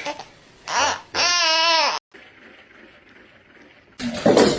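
A short call, then a loud, high call with a wavering pitch lasting about a second that cuts off abruptly; a loud burst of noise comes near the end.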